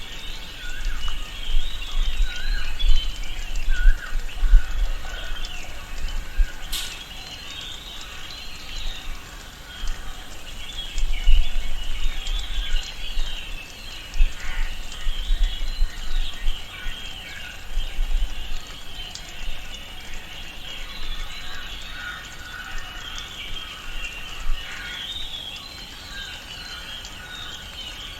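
Tropical rainforest ambience: many birds chirping and calling at once over a steady hiss, with a low rumble coming and going and a single sharp click about seven seconds in.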